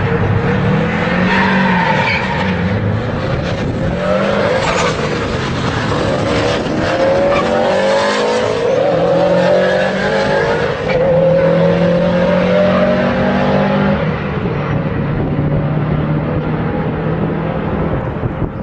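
Car engines under hard acceleration in a drag race between a Ford Mustang GT and a Subaru WRX, the pitch climbing again and again as they pull through the gears. A brief break comes about eleven seconds in, then the engines hold a steadier pitch and ease off slightly near the end.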